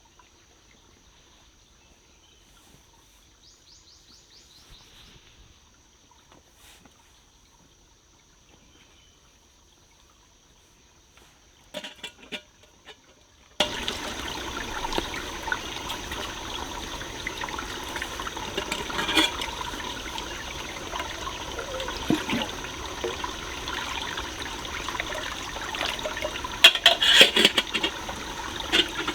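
Faint forest quiet with a thin steady high tone, then about halfway in, abruptly, the steady rush of a stream's running water, with scattered sharp clicks and knocks over it.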